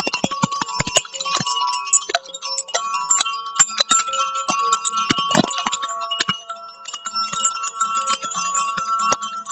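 Chimes struck over and over, rapid strikes with many overlapping ringing tones that keep sounding together.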